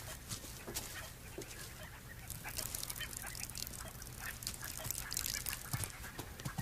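Scattered short, honk-like and chirping animal calls over faint background noise.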